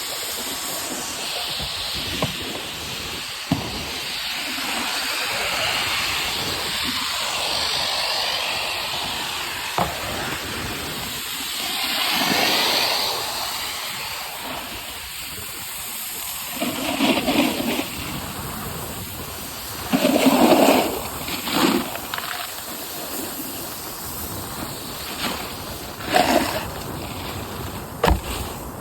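Rome Agent 154 snowboard sliding and carving over snow: a steady hiss that swells and fades, with a few sharp knocks and several louder scraping bursts in the second half.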